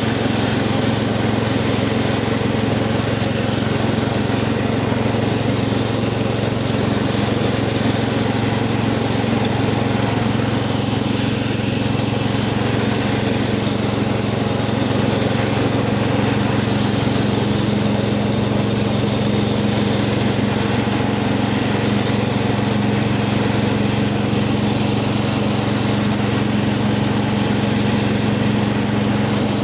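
Cub Cadet 80 garden tractor's single-cylinder engine running steadily, warming up after a cold start.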